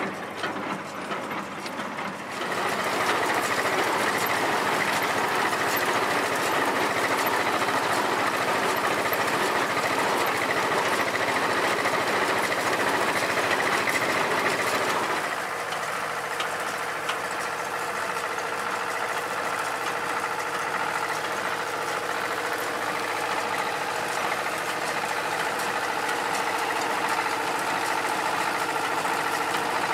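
Diesel engine of harvest machinery running steadily. It grows louder about two seconds in, and about halfway through it changes to a steadier note with clearer tones.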